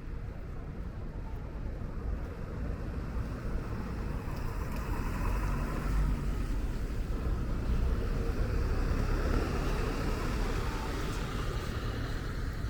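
Road traffic on wet streets: a low steady rumble, with the tyre hiss of passing vehicles swelling in the middle and easing off near the end.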